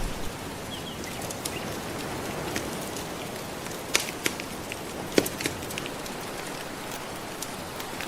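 Soft ocean waves washing in a steady hiss, layered with a crackling wood fire that gives scattered sharp pops, the loudest about four and five seconds in.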